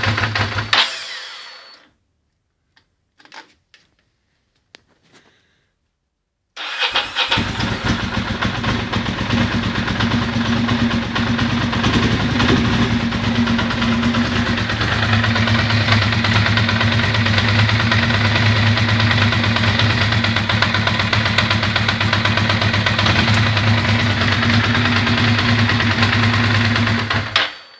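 Ducati Monster 620 i.e. air-cooled V-twin engine running, then shut off about a second in; after a few seconds of quiet with faint clicks it is started at about six and a half seconds and idles steadily until it is switched off near the end. It is running with a bad fuel injector, which swapping the injectors has moved to the horizontal cylinder.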